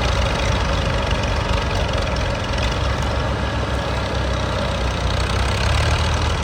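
Combine harvester running steadily with a deep engine rumble and a constant mechanical rush over it.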